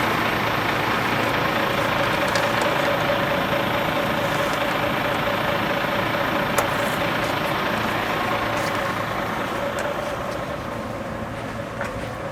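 Steady rushing hiss of compressed air venting as a STIS central tyre inflation system deflates a heavy 8x8 truck's tyres, with a steady tone running through it. The hiss eases off somewhat near the end.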